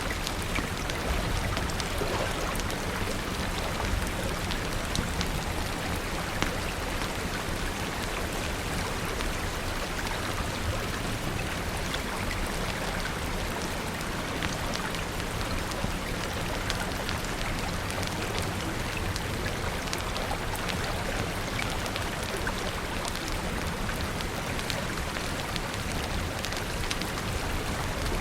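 Steady rain falling, an even hiss with a dense patter of sharp drops ticking on surfaces.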